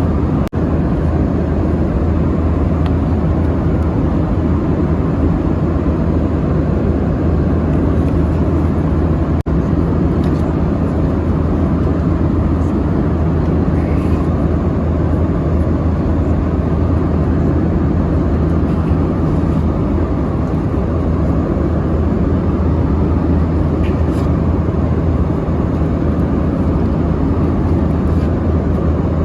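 Steady drone of an Airbus A320 in flight heard from inside the cabin: jet engine and airflow noise with a deep hum underneath, holding even.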